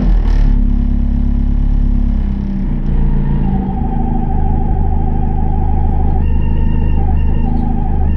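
Honda Civic ice racer's engine idling steadily, heard from inside the cabin with the car standing still. A short rush of noise fades out right at the start.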